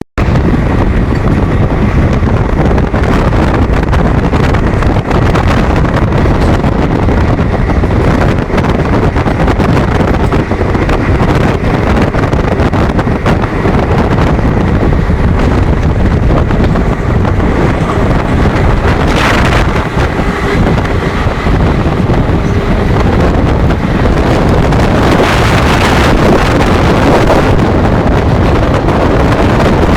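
Fast-moving train, a loud steady rush of running noise with wind buffeting the microphone, swelling briefly about two-thirds of the way through and again near the end.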